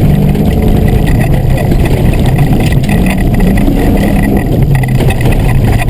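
Fox-body Mustang's engine running hard, its pitch stepping up and down as the revs change, loud and continuous.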